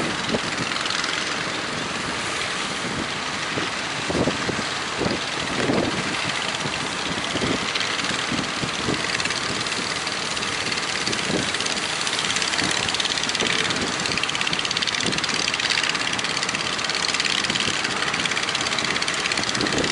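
Fishing boat engines running steadily, mixed with gusty wind noise.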